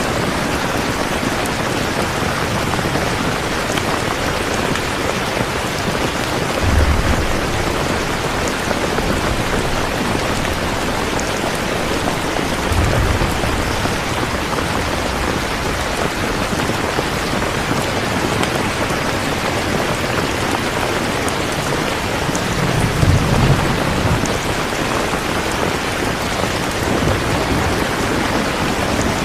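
Steady heavy rain with distant rolls of thunder: low rumbles about a quarter of the way in, near the middle, and a longer, louder one about three quarters through.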